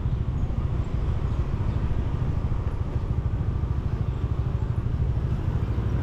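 Motorcycle riding along a city road: a steady low rumble of engine and wind on the camera's microphone.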